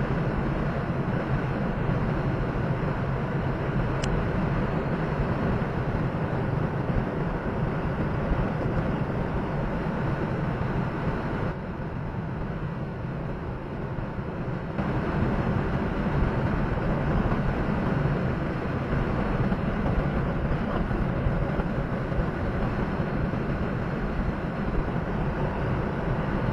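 Steady engine and road noise inside a semi truck's cab while driving. There is a sharp click about four seconds in, and the noise drops quieter for about three seconds midway.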